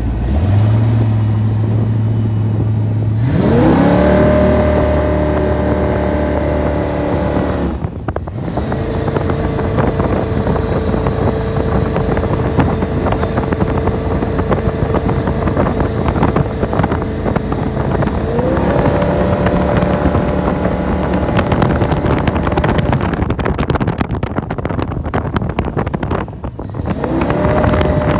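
1973 Hondo jet boat's carbureted big-cam engine revving up and holding high revs underway, easing back and opening up again several times, over a steady rush of noise.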